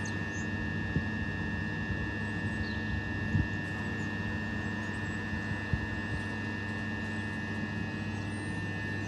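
Steady high-pitched electrical whine over a low hum from a Class 377 electric multiple unit, with a few faint knocks.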